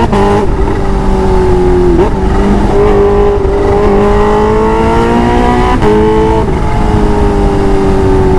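Kawasaki Ninja H2's supercharged inline-four accelerating under load. The engine note climbs steadily and drops sharply at gear changes about two seconds in and again near six seconds.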